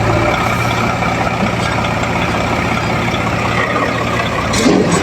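Heavy diesel earth-moving machinery engine running steadily, with a short louder sound just before the end.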